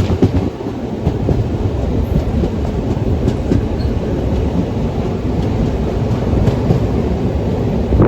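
Passenger train running on the line, a steady rumble of wheels on rail with faint clacks over the rail joints.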